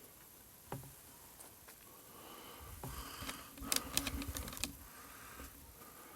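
Faint, scattered clicks and light knocks, with a quick cluster of sharp clicks and low thuds about four seconds in.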